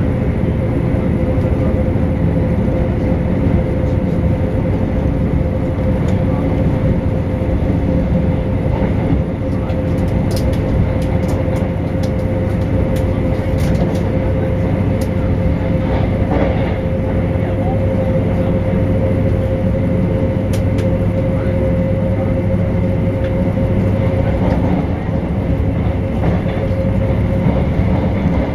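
Passenger train running, heard from inside the carriage: a steady rumble of wheels and running gear with a constant hum, and a few light ticks and rattles from about ten to sixteen seconds in.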